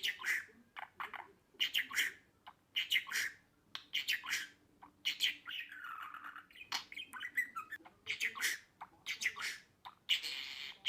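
Budgerigar chattering: a run of short, sharp chirps and squawks repeating about once or twice a second, with a longer warble in the middle.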